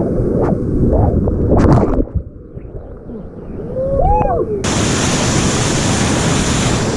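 Whitewater rushing around a kayak. It drops quieter about two seconds in, with a brief gliding squeak, then cuts suddenly to louder, hissier rushing water a bit past halfway.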